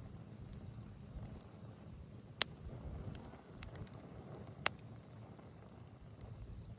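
Wood fire crackling: scattered faint ticks over a low steady rumble, with two sharp loud pops, one about two and a half seconds in and another near five seconds.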